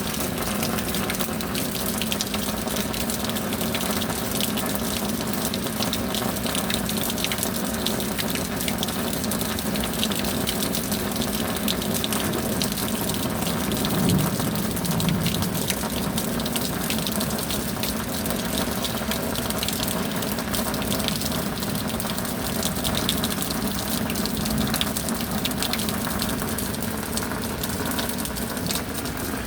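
Steady rain with water gushing and running, swelling briefly about halfway through.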